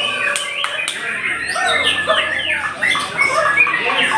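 Several white-rumped shamas (murai batu) singing at once, a dense overlap of varied whistled phrases, sweeping slurs and sharp clicking notes.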